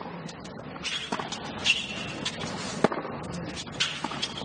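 Tennis ball struck by rackets during a rally: three sharp hits about one to two seconds apart, over a steady low hum of stadium ambience.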